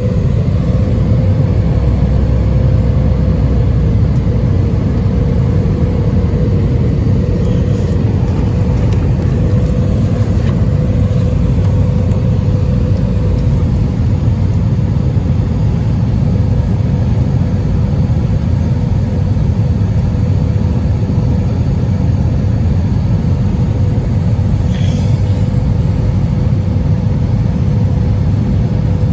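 Airbus A320 cabin noise in flight: a steady, loud rumble of engines and airflow with a constant hum running through it.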